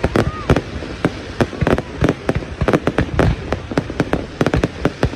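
Aerial fireworks going off in a dense, irregular volley: many sharp bangs and crackles a second, overlapping with one another.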